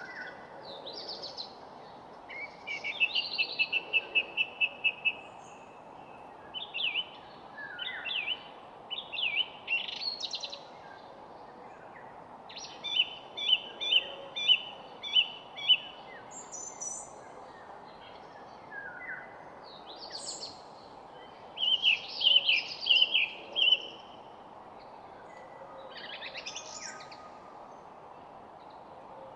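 Several wild birds singing and calling in short phrases every few seconds, some as quick runs of repeated chirps. A steady background hiss runs underneath.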